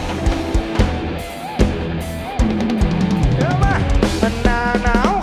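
Live band playing an instrumental passage: a drum kit keeps a steady beat with kick and snare under a bass line, while a lead instrument plays a melody of bending notes that gets busier and louder about halfway through.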